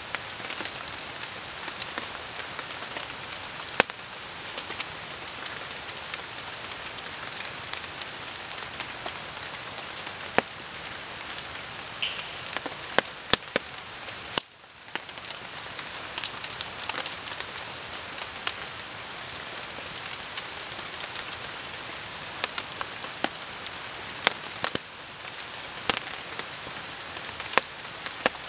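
Steady rain falling, with the sharp crackles and pops of a wood campfire scattered through it. The sound dips briefly about halfway through.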